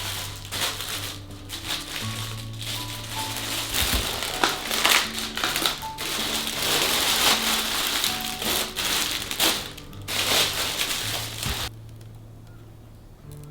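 Plastic packaging crinkling and rustling as it is handled, in dense irregular bursts over soft background music; the crinkling stops about two seconds before the end, leaving the music.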